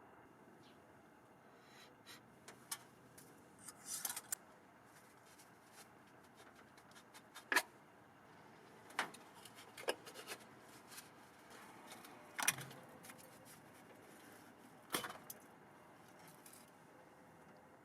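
Scattered light metallic clicks and knocks, about a dozen spread out, with a short rattle about four seconds in: tools and parts being handled under a truck's hood.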